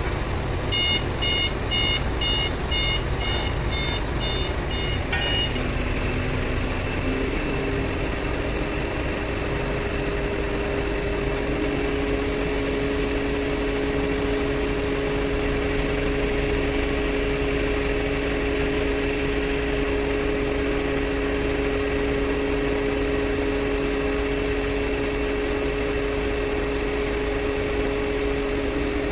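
XCMG QY85K truck crane's diesel engine running steadily, with a steady two-note whine over it. For the first few seconds a rapid electronic warning beep sounds, about two beeps a second, then stops.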